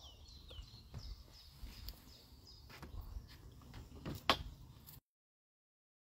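Faint outdoor ambience: a small bird repeating short falling chirps over a low wind rumble, with a few light clicks, the sharpest about four seconds in. The sound then cuts off to dead silence about five seconds in as the phone's microphone is muted.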